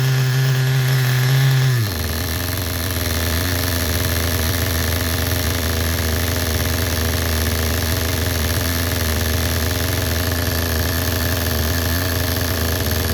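Mugen MV12 small nitro RC engine running on its first break-in tank: it runs at higher revs, drops to a steady idle about two seconds in, and keeps idling evenly.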